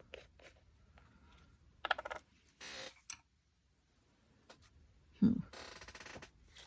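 Small tabletop handling sounds of painting supplies: a quick run of clicks about two seconds in, a brief rustle, a soft low thump about five seconds in, then a short scratchy rustle.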